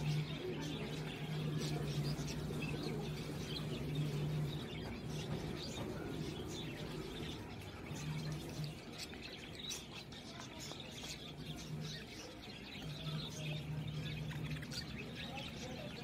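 Small birds chirping in the background, over a low hum that cuts out and comes back several times.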